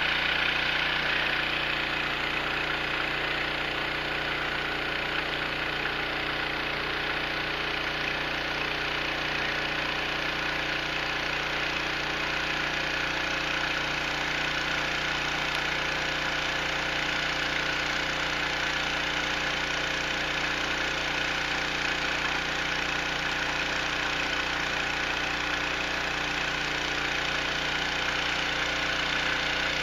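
Engine of a gold suction dredge running steadily at a constant speed.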